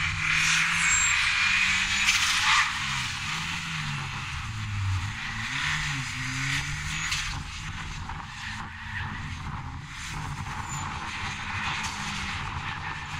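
Ford Anglia sprint car's engine revving hard as it is driven past at speed. Its note rises and falls several times in the middle, loudest in the first couple of seconds.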